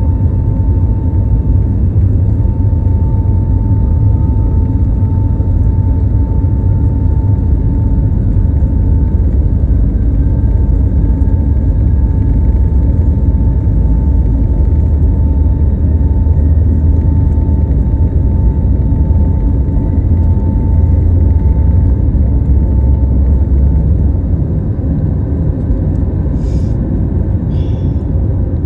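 Steady low rumble of a moving vehicle heard from inside its cabin, with a steady whine riding on it and two brief clicks near the end.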